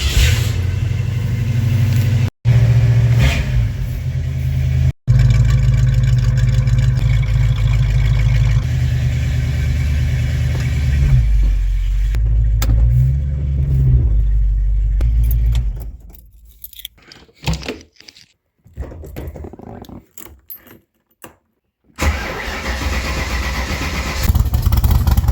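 Shelby Cobra replica's V8 engine started and running with a deep, steady low rumble, its pitch rising and falling briefly as it is driven a short way. The engine stops about two-thirds of the way in, leaving a few scattered clicks and knocks.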